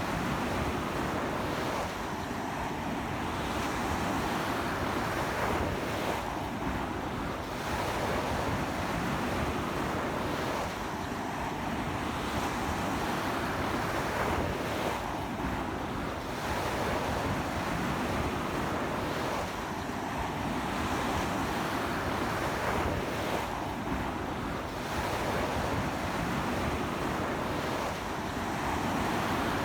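Ocean surf breaking on a sandy beach in strong wind: a continuous wash of waves that swells and eases about every four seconds, with wind buffeting the microphone.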